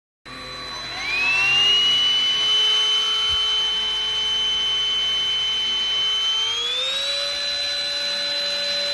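Russell Taylors V5 cordless vacuum cleaner's motor starting up with a rising whine, then running with a steady high whine. About six and a half seconds in the whine steps up in pitch as the motor goes to a higher speed.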